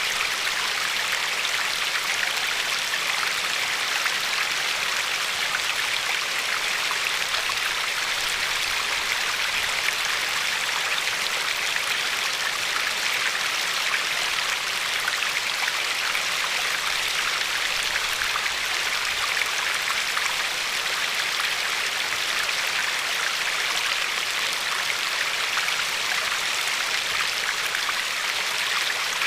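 River water flowing and lapping along a pebbly shore: a steady, even rush of water with fine splashing.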